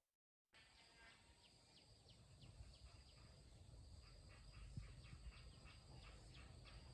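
Near silence: faint outdoor ambience with many short, high bird chirps and a thin steady high hum, after a brief dead-silent moment at the start.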